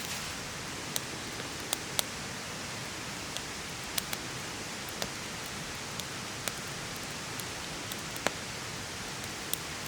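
Steady rain hiss with sharp, irregular ticks, about one a second.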